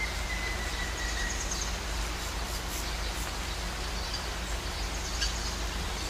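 Bird calls over a steady hiss of outdoor ambience: a thin whistled note sliding slightly down over the first second or so, then a few brief high chirps.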